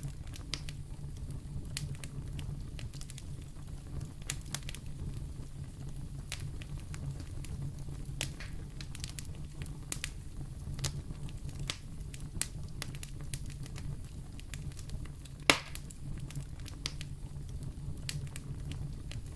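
Wood fire in a fireplace crackling over a low steady rumble, with scattered sharp pops and one louder pop about fifteen seconds in.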